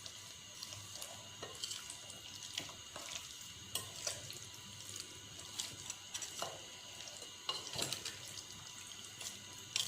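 Raw chicken being mixed by hand in a wet marinade of yogurt, spice paste and lemon juice: faint, irregular squelching.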